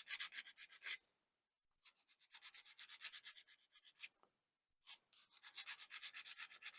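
A sanding stick rubbed quickly back and forth on the broken peg end of a small plastic model part, about five strokes a second, in three short bouts with the middle one softer. The plastic is being sanded flat so the glue will stick.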